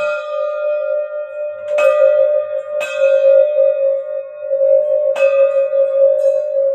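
Singing bowls: one bowl keeps a steady ringing tone throughout, while a higher-pitched bowl or bell is struck three times, each strike ringing out and fading over the held tone.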